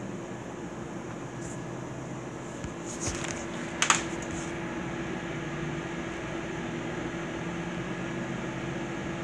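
A gas furnace's blower running with a steady hum as the unit shuts down after the call for heat ends. A short sharp click sounds nearly four seconds in.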